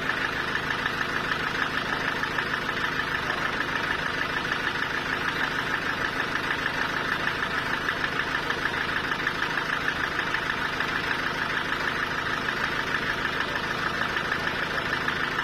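Sawmill machinery running steadily: a constant mechanical drone with a higher, fast-pulsing whine over it, never changing in pace or loudness.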